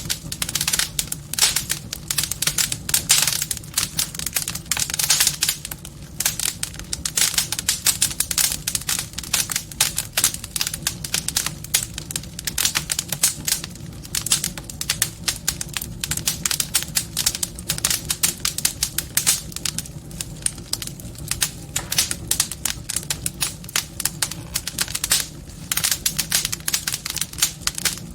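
Wood fire crackling in a fireplace: a dense, irregular stream of sharp snaps and pops over a low, steady rumble.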